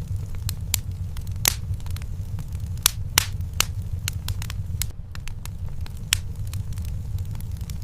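Fire crackling in a fireplace: irregular sharp pops, a little over a dozen, with the loudest about one and a half and three seconds in, over a steady low rumble.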